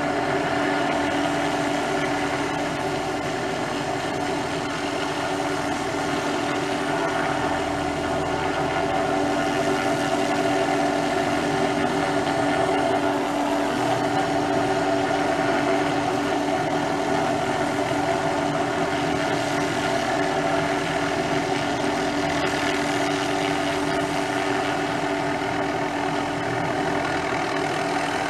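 MD500 turbine helicopter running steadily, its turbine and rotor making a constant drone with a few steady tones.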